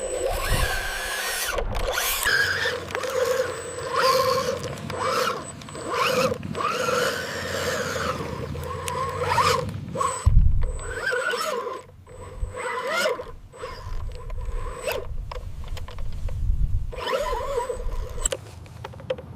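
Small electric motors and gearing of a radio-controlled construction model whining, the pitch rising and falling as they work, with scraping and sharp clicks in between.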